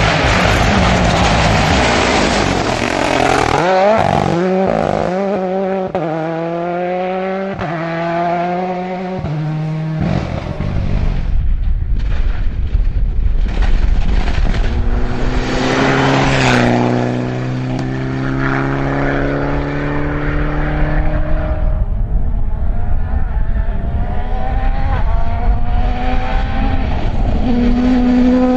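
Rally cars at full throttle, their engines revving up through the gears with quick shifts between each rise. The sound changes abruptly to another car about ten seconds in, whose engine note drops sharply partway through before climbing again.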